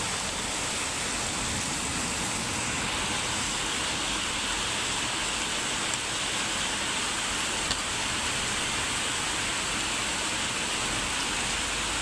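Steady rain falling, an even hiss with a couple of faint ticks.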